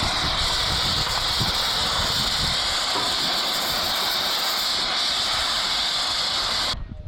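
Steady, loud hiss of compressed air from a workshop air tool, cutting off abruptly near the end.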